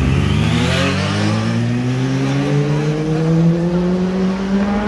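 Sport motorcycle engine accelerating hard in one gear, its pitch rising steadily the whole time.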